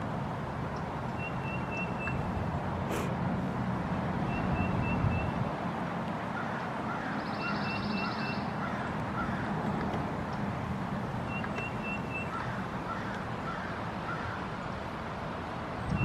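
Birds chirping: short runs of three or four quick high chirps repeat every few seconds, with series of lower chirps between them, over a steady background hiss.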